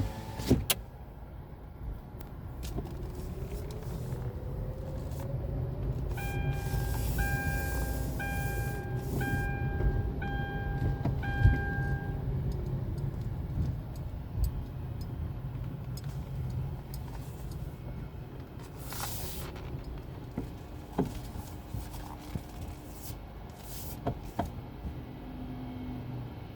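Car running and rolling slowly, a steady low rumble heard from inside the cabin, with a run of six pitched beeps about one a second partway through and a few scattered clicks.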